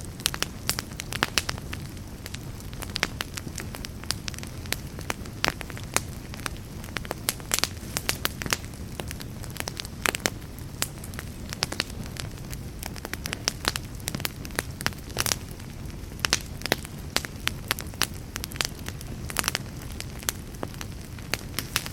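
Wood fire burning in a fireplace: a steady low rumble of flame with frequent irregular sharp crackles and pops from the burning logs.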